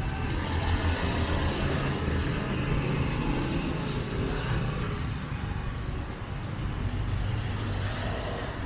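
Street traffic: motor vehicles running past, a steady low engine rumble over road noise.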